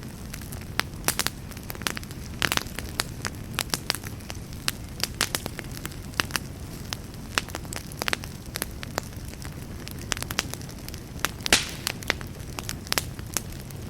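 Wood campfire burning, with a steady low rumble of flame and frequent irregular crackles and pops, one louder pop near the end.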